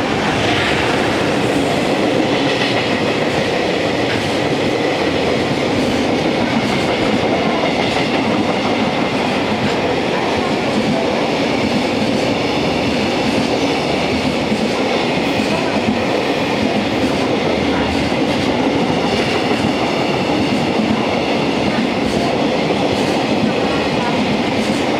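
JR Freight container wagons rolling past close by, their wheels running over the rails in a steady, loud rumble.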